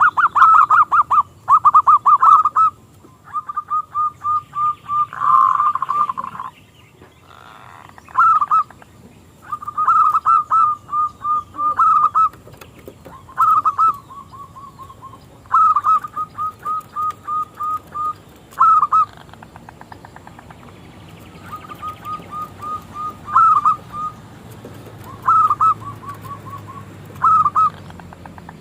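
Zebra dove (local perkutut) cooing: repeated phrases of quick rolling coo notes, some loud and some fainter.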